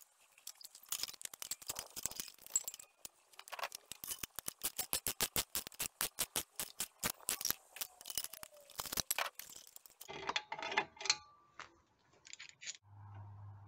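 Mechanical ratcheting clicks: scattered at first, then an even run of about five or six clicks a second, then an irregular cluster of clicks. A low steady hum starts near the end.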